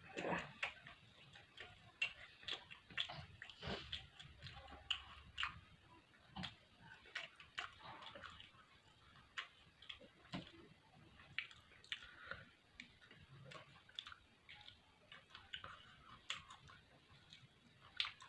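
Close-miked eating sounds: a person chewing chicken, roti and papad, with irregular sharp clicks, crunches and wet mouth smacks, one or two a second.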